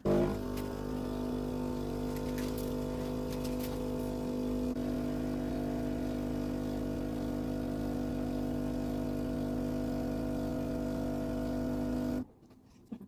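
Philips automatic coffee machine running a brew cycle with a steady buzzing hum, which stops suddenly about twelve seconds in.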